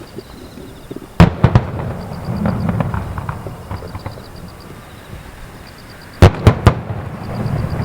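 Fireworks shells bursting overhead: two volleys of three loud bangs each, about five seconds apart, each followed by a rolling rumble.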